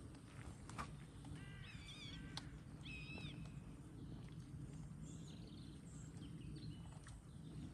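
Faint outdoor ambience with a low steady rumble. A bird gives short, arched calls about one and a half seconds and three seconds in, and there are a couple of light clicks.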